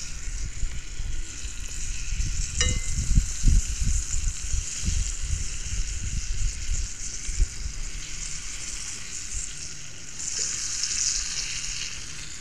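Flour-dredged chicken legs frying in oil in a cast iron skillet on a propane camp stove: a steady sizzle that grows brighter near the end. A single clink comes about three seconds in, with low thumps and rumble underneath.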